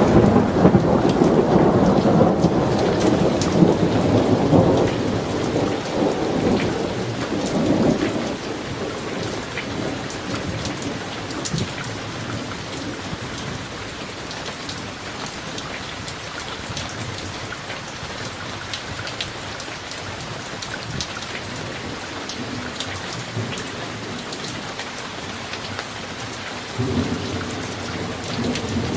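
Summer thunderstorm: steady rain with individual drops ticking, under a long roll of thunder that rumbles loudly for the first eight seconds or so and dies away. Another thunder rumble begins near the end.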